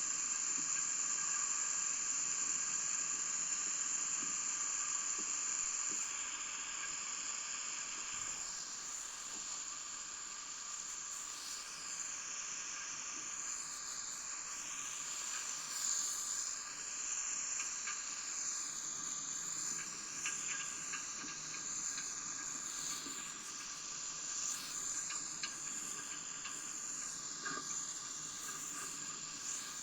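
A steady hiss, slightly louder for the first few seconds, with faint steady whines running through it.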